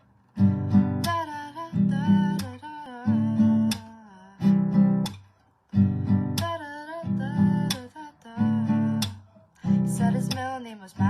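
Acoustic guitar strummed in short chord phrases as a song intro, with a brief break about five and a half seconds in.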